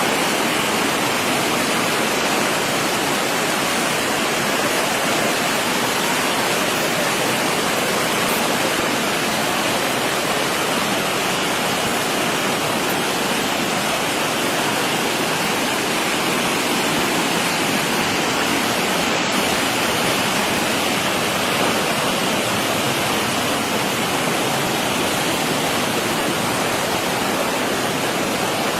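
Steady rushing of fast-flowing floodwater, an even unbroken noise.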